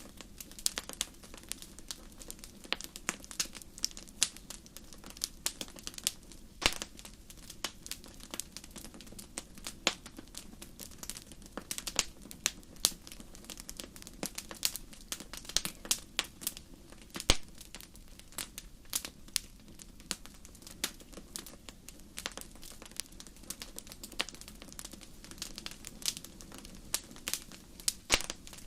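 Wood fire burning in a fireplace: steady, irregular crackling with sharp pops, a few louder snaps now and then, over a low background rumble.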